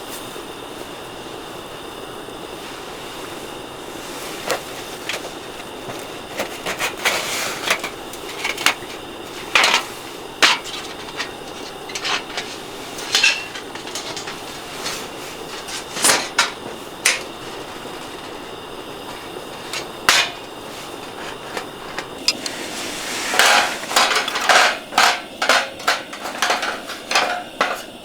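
Irregular knocks and clinks of camp gear being handled, over a steady background hiss, coming thicker near the end.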